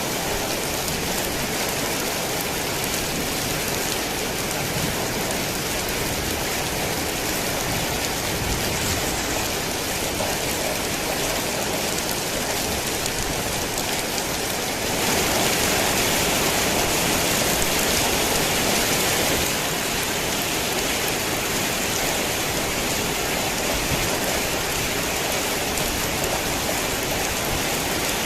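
Heavy rain falling steadily, a dense even hiss of drops. It swells louder for a few seconds about halfway through, then eases back.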